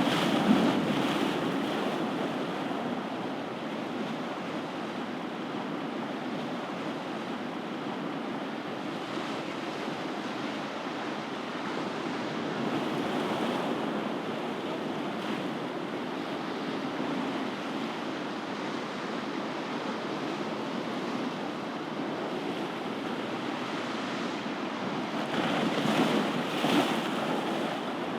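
Ocean waves breaking and washing on a shore, a steady surf that swells louder near the start and again around 26 seconds in.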